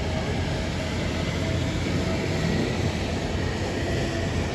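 Strong thunderstorm wind and rain, a steady rushing noise with a low rumble underneath.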